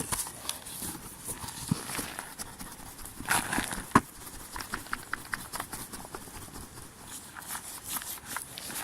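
Wood campfire crackling: scattered, irregular pops and ticks, with a louder rustling burst about three seconds in and a sharp crack just after it.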